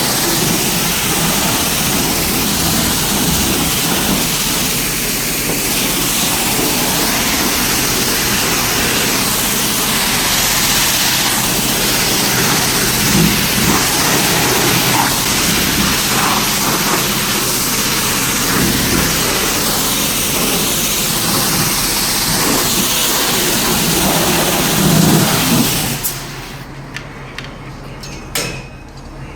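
High-pressure spray wand at a self-service car wash hissing steadily as it sprays the car, cutting off abruptly about 26 seconds in, followed by a few faint clicks.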